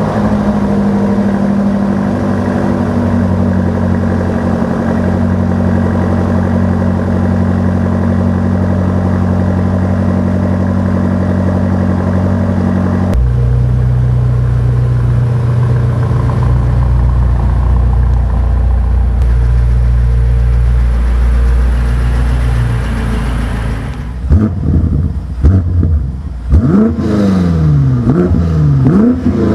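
BMW M5 Competition's twin-turbo 4.4-litre V8 running at a raised cold-start idle, which settles to a lower idle about 13 seconds in. From about 24 seconds, several quick throttle blips make the revs rise and fall.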